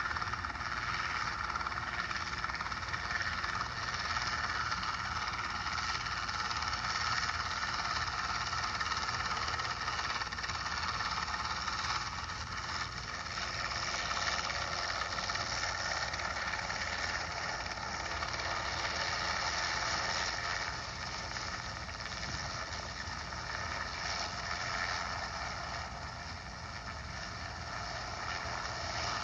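Steady drone of a light aircraft's engine and propeller in flight, heard from inside the cabin, easing slightly past the middle.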